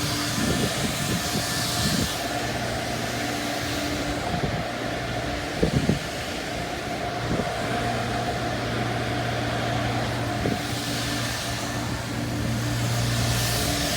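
A motor running with a steady low hum that drops out for about three seconds near the middle, with a couple of short knocks around then.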